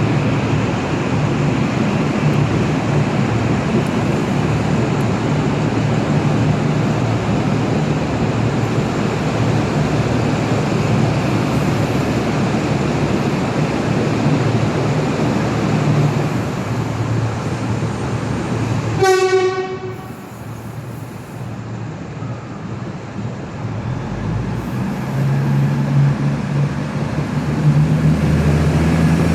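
Train at a station platform: a steady rumble with a low engine drone. About nineteen seconds in there is a brief high-pitched toot. The noise then drops and the low engine drone builds up again near the end.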